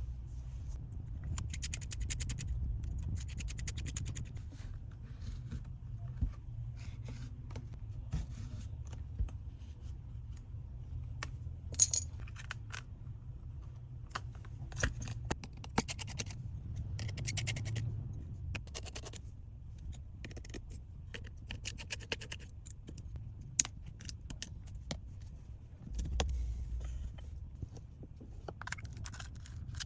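Small metal repair tools clicking, tapping and scraping against an iPhone 7 Plus during a battery replacement, in scattered bursts with one sharp click standing out about 12 seconds in. A low steady hum runs underneath.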